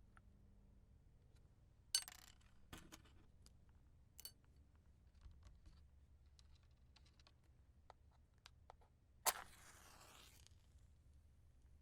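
Wooden match struck on a matchbox about nine seconds in: a sharp scrape, then the hiss of the head flaring for about a second. Earlier come a shorter sharp scrape or tap near two seconds and scattered small clicks and taps from handling the matches.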